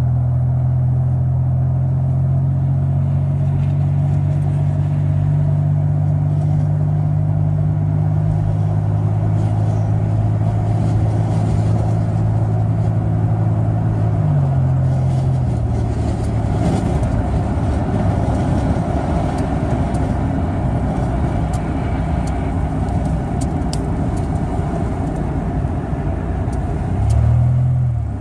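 Steady engine and road drone of a moving vehicle, a low hum with several pitches. About halfway through it drops in pitch and turns rougher, and it gives a brief rise and fall near the end.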